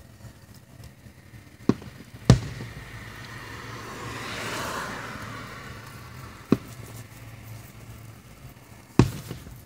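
Aerial firework shells bursting: four sharp bangs, two close together near the start, one in the middle and one near the end, the second the loudest. A rushing hiss rises and fades between them.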